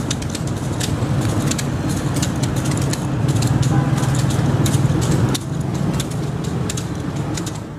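Motorcycle and car engines running close by, with a rapid, irregular clatter of sharp clacks from the penitents' whips of bamboo sticks striking their backs.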